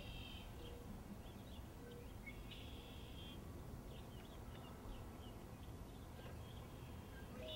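Songbirds singing faintly over a low, steady outdoor rumble, with a trilled phrase about two and a half seconds in and scattered short chirps.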